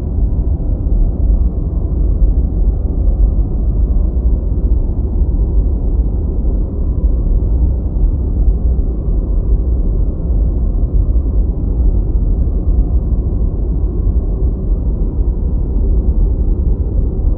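Steady deep white noise: an even, low, muffled rushing with no high hiss, unchanging throughout.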